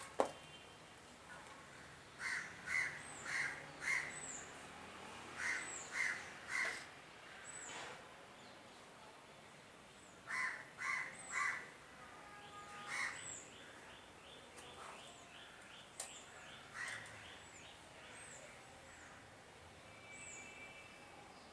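Birds calling: harsh calls in runs of three or four, repeated several times, with short high chirps of a smaller bird in between.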